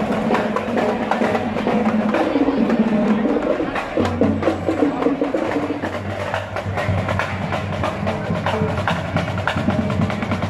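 Live carnival street music: drums and sharp, rapid wood-block-like percussion strokes over sustained pitched tones.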